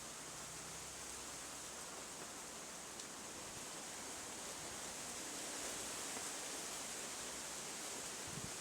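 Steady rushing outdoor ambient noise, with no clear bird calls, that grows a little louder in the second half and has one faint click about three seconds in.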